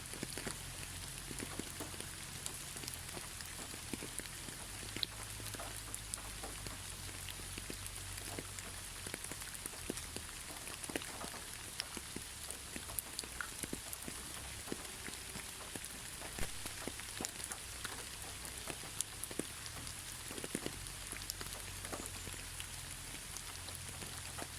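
Gentle, steady rain falling, with many separate drops striking close by.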